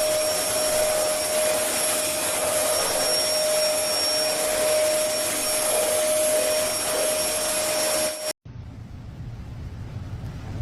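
A small electric motor with rushing air, running steadily with a high whine, then cutting off abruptly about eight seconds in. A quieter low hum follows.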